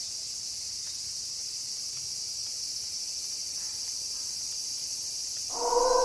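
Steady night chorus of crickets chirring high and even. About five and a half seconds in, a wolf begins a long howl at a steady pitch.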